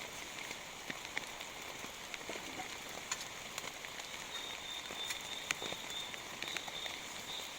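Heavy rain falling steadily, with many scattered sharp taps of drops striking a nearby surface. A thin high steady tone joins about halfway through.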